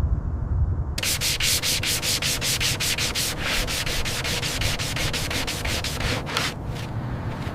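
Rapid back-and-forth sanding strokes, about five a second, starting about a second in and stopping near the end, over a steady low rumble.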